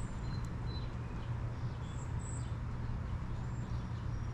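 Birds giving short, high chirps several times over a steady low rumble.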